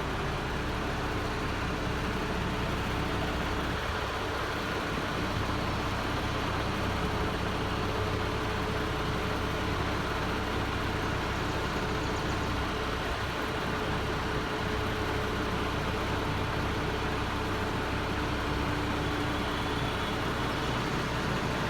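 A vehicle engine running steadily, with a constant low hum and no revving.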